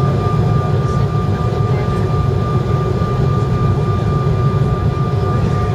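Steady cabin noise of an Embraer 190 airliner in flight: a low rumble from its General Electric CF34-10E turbofan engines and airflow, with two steady whining tones running through it.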